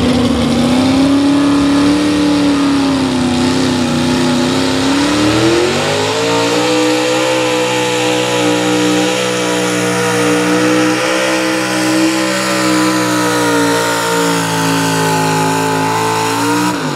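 Pulling truck's engine held at high revs during a truck pull. The pitch climbs about five seconds in, holds high and steady, then drops off sharply at the very end as the throttle is released.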